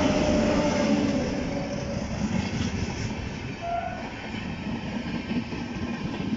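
Indian Railways electric locomotive and its passenger coaches running past close by along the platform track as the train pulls in. It is loudest in the first second as the locomotive goes by, then settles into a steadier rumble of coach wheels rolling past.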